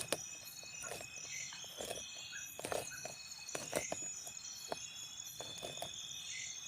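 Insects chirring steadily in the forest, several pulsing high-pitched songs at once, with irregular light clicks and knocks a few times a second.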